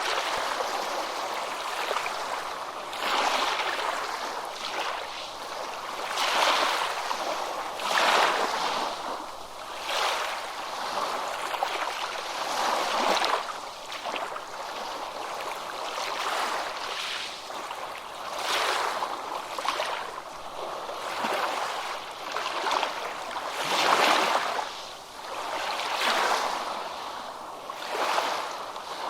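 Ocean waves breaking and washing up a beach, the surf swelling and ebbing every two to three seconds.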